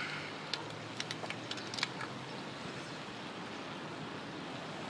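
Bicycle riding along: a steady rushing noise of the ride, with several sharp clicks of the bike in the first two seconds.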